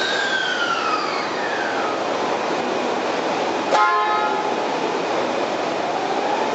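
Electric train sound: a motor whine falling in pitch over the first two seconds, a short horn toot a little under four seconds in, then a whine rising in pitch as the train pulls away, over steady running noise.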